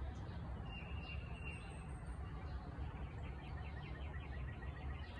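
Songbirds chirping over a steady low rumble, with a quick repeated trill of about eight notes a second through the second half.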